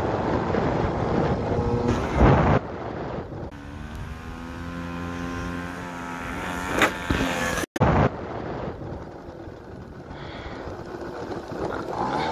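Honda Vision moped's small engine running and revving as it is ridden over rough ground, its pitch rising and falling. There are loud knocks about two seconds in and again just past halfway.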